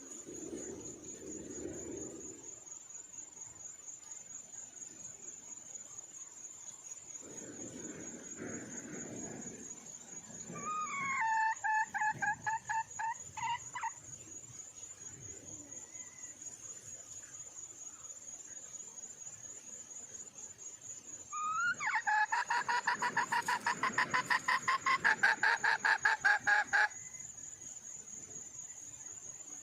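Red junglefowl hen calling to attract a male: two bouts of fast repeated notes, a short one about eleven seconds in and a longer, louder one from about twenty-two to twenty-seven seconds. A cricket's steady high trill runs underneath.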